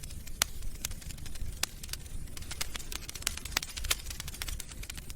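Fireplace crackling: irregular sharp pops and snaps, several a second, over a low steady rumble of the fire.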